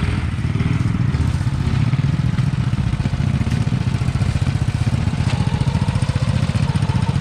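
Tractor engine running under load, a steady low drone with a rapid even pulse that becomes more pronounced after a couple of seconds.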